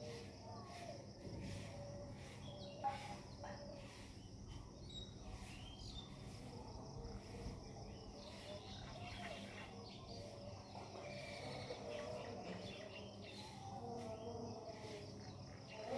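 Faint background of chirping insects and a few bird calls, with one sharp click about three seconds in.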